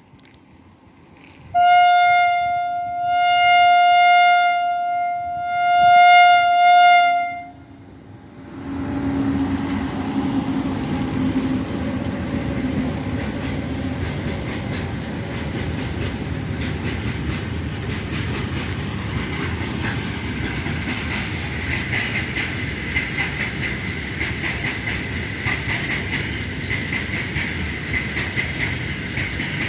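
Freight train approaching a level crossing sounds its horn in one long blast of about six seconds. The locomotive then passes with a brief engine drone, followed by the wagons rolling by in a steady rumble with fine, continuous wheel clicks over the rail joints.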